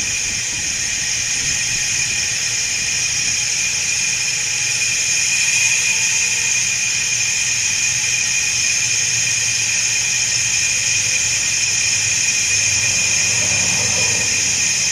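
Compressed air hissing steadily through a homemade exhaust smoke-test tool, pushing cigar smoke into the exhaust to find a leak. A low hum runs underneath.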